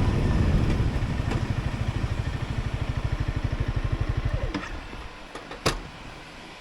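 Honda CRF300L Rally's single-cylinder engine idling, an even low pulsing about a dozen beats a second, fading and stopping about four and a half seconds in. A single sharp click follows about a second later.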